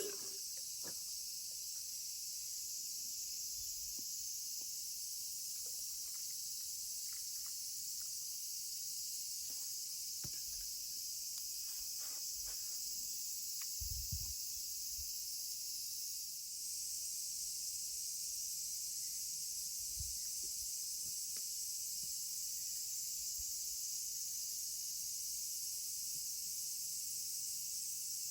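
Steady, high-pitched chorus of summer insects, with a few faint clicks and low knocks.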